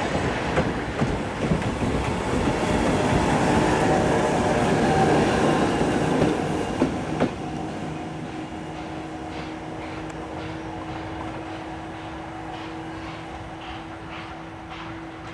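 Steam-hauled train of Oigawa Railway C11 229 rolling along the platform, wheels clacking over rail joints, loudest about halfway and then fading as it pulls away. A steady low hum is left near the end.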